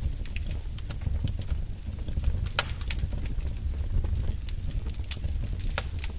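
Fire in a fireplace crackling: irregular sharp pops over a low steady rumble of the flames, with one louder pop about two and a half seconds in.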